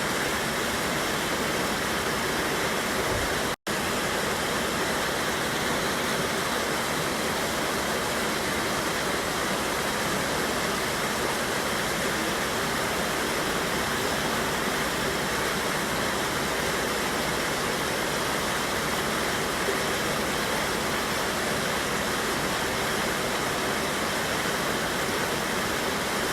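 Waterfall on a mountain river: water pouring and rushing over rocks in a steady, even rush, cutting out for an instant about three and a half seconds in.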